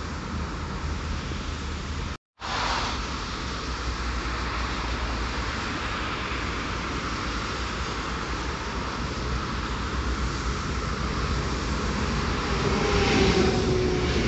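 Electric passenger train approaching and running along the platform. Its noise grows slowly over a steady hum of road traffic and is loudest near the end, where a few steady whining tones come in as the coaches pass. A brief gap of silence comes about two seconds in.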